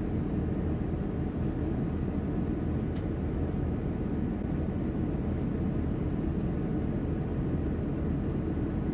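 Steady cabin noise inside a Boeing 787-9 airliner in flight: a constant low rumble and hiss of engines and airflow, with a faint click about three seconds in.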